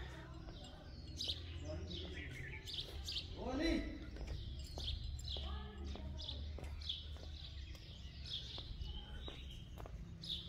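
Small birds chirping, short high calls repeated many times at irregular intervals over a steady low background hum.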